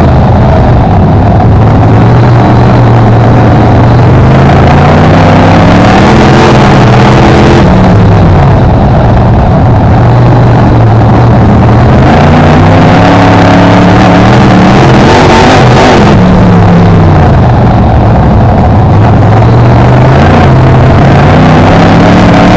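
BriscA F1 stock car's V8 engine, heard loud from on board while lapping. The revs climb steadily down each straight and drop sharply into the bends, with two drops about eight seconds apart and a third climb near the end.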